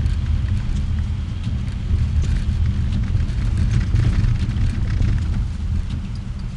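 A car driving, heard as a steady low rumble of engine and road noise, with scattered light crackling throughout.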